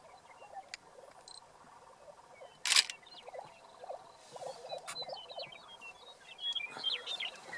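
Lesser prairie chickens calling on a lek: short low notes repeated through the middle, with bursts of higher yipping notes in the second half. One loud sharp click about two and a half seconds in.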